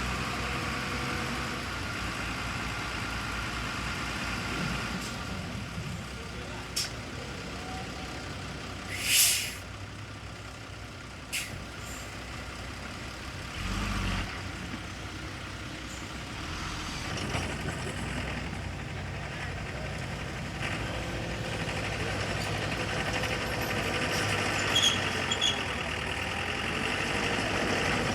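Heavy diesel machinery running steadily, with a short, loud hiss about nine seconds in, typical of a dump truck's air brake releasing. A few sharp clicks or knocks sound around it.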